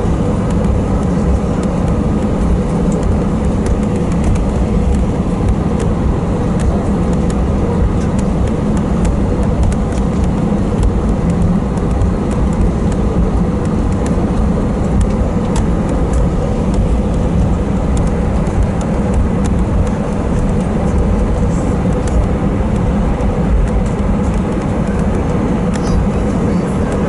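Airbus A320 cabin noise while taxiing: the engines running at taxi idle as a steady low hum, with a constant rumble from the rolling gear and faint scattered ticks, heard from inside the cabin.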